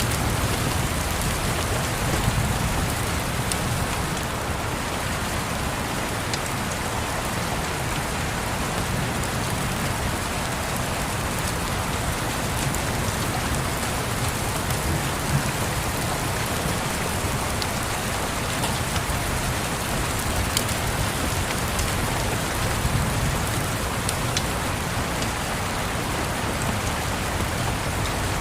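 Steady rain falling on a surface, an even hiss with a low rumble underneath and a few sharp scattered ticks.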